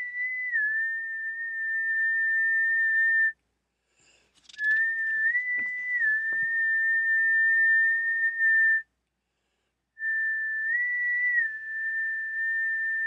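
Human whistling: three long held whistled notes with short silences between, each stepping briefly up a little in pitch and back down before being held steady.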